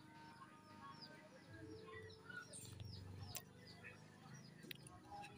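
Faint small-bird chirping: quick, high chirps that slide downward, repeated a few times a second, with a light click or two about halfway through.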